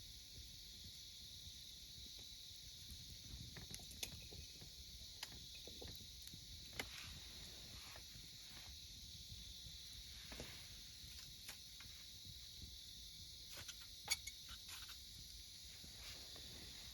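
Wood fire crackling with scattered sharp pops, the loudest about fourteen seconds in, over a steady high-pitched chorus of autumn insects.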